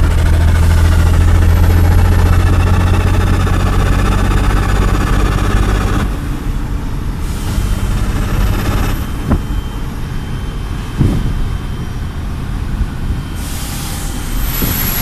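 Heavy truck's diesel engine running steadily, loud for about six seconds and then easing to a lower level. Three short hisses of released air, like air-brake bleeds, come at the start, in the middle and near the end, with a few light knocks in between.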